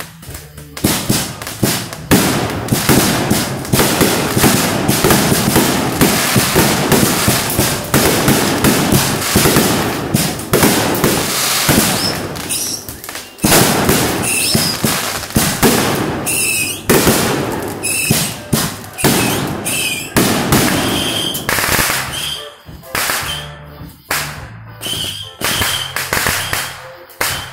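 Aerial fireworks going off in a rapid, near-continuous barrage of bangs and crackling for about twenty seconds. The barrage then thins to separate bangs, mixed with short whistling tones.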